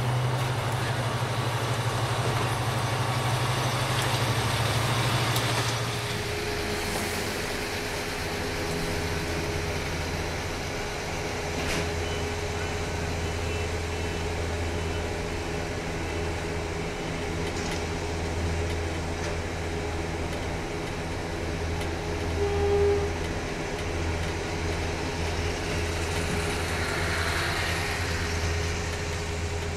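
Diesel-hauled passenger train passing at a station: a loud engine drone for the first six seconds, then a steadier, lower engine hum as the lit coaches roll by.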